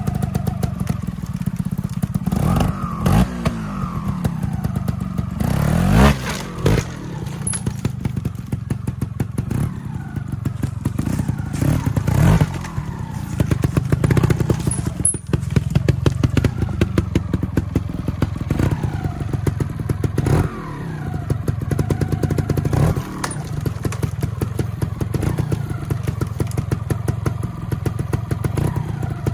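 Trials motorcycle engine running at low revs with repeated throttle blips, the pitch rising and falling again and again as the bike works over rough ground. A few sharp thumps and clatter from the bike striking rock, loudest about six and twelve seconds in.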